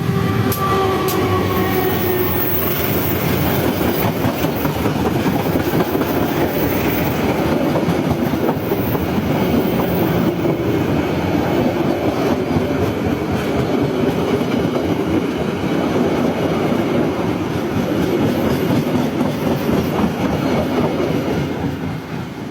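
Train passing close by: a steady loud rumble of wheels on rails with clickety-clack, the last of its horn fading in the first couple of seconds. The noise dies down near the end.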